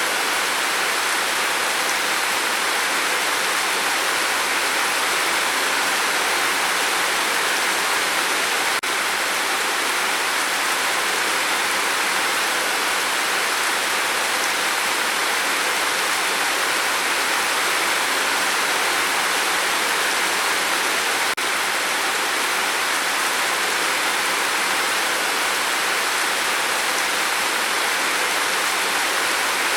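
Steady rain falling, an even hiss without individual drops standing out, broken by two momentary dips in level about nine and twenty-one seconds in.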